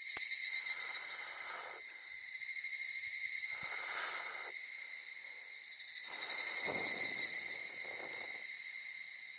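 Insects trilling steadily in a continuous high-pitched chorus, with three spells of softer rushing noise underneath.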